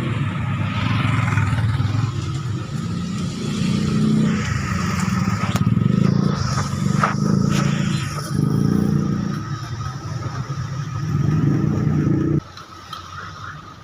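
Keeway 125 scooter's single-cylinder engine running, its speed swelling and sagging unevenly rather than holding a steady idle, then cutting off abruptly near the end. The uneven running is the fault the mechanic puts down to leaking, carboned valves.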